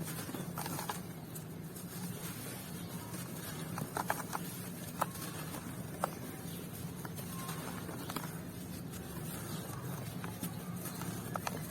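Dry crumbly material being crushed and crumbled by hand: a soft rustling patter with a few sharp crackles, about four through the middle and a pair near the end, over a steady low hum.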